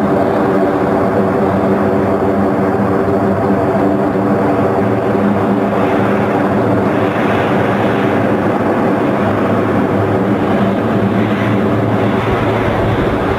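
Military transport aircraft engines running, a loud steady drone with a humming tone throughout.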